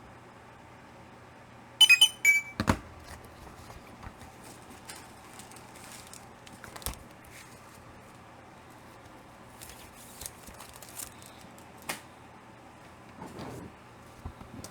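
Close-up handling noises: a loud clatter of several sharp clicks about two seconds in, then scattered soft clicks, knocks and rustles as comic books are put down and picked up, over a steady low electrical hum.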